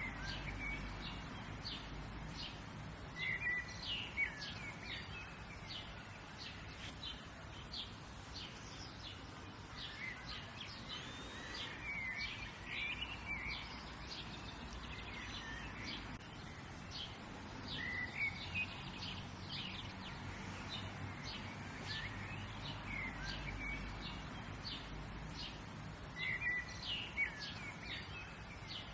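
Outdoor ambience of several songbirds chirping and trilling, in clusters every several seconds, over a steady low background rumble.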